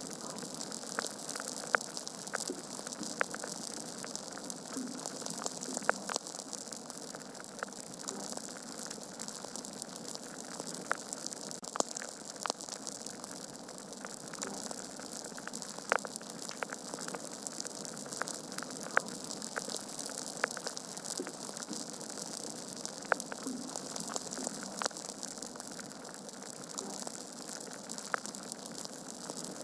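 Wood fire burning in a fireplace: a steady hiss with irregular sharp crackles and pops of the logs, a few of them louder than the rest.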